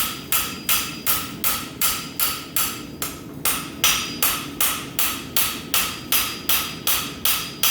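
Blacksmith's hammer striking hot steel bar on an anvil in a steady rhythm, about three blows a second, each with a short metallic ring, with a brief pause about three seconds in.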